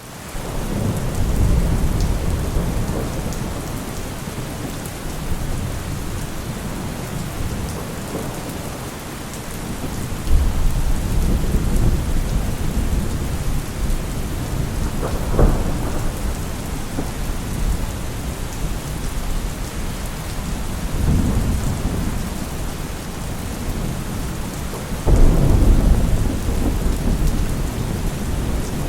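Heavy rain falling steadily with repeated low rolls of thunder. A sharp thunderclap comes about halfway through, and the loudest, longest rumble near the end.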